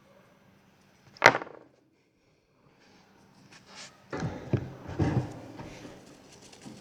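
Handling knocks: one sharp knock about a second in, then a run of dull thumps and rustling in the second half.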